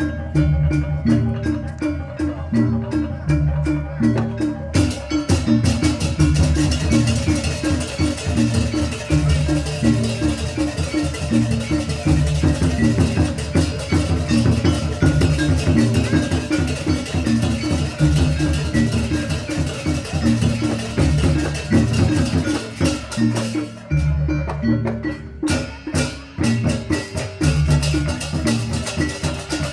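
Javanese gamelan-style music accompanying a barongan dance: tuned metal mallet instruments play a repeating pattern over drums. About five seconds in, a bright, noisy layer of shimmering percussion joins. It drops out for a moment near the end, then returns.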